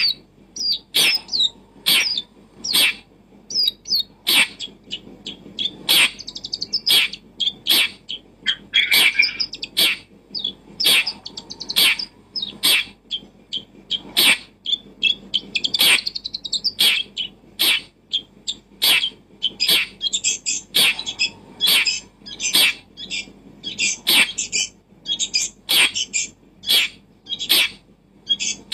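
Bird chirping and warbling in short rapid phrases, mixed with sharp clicks about twice a second.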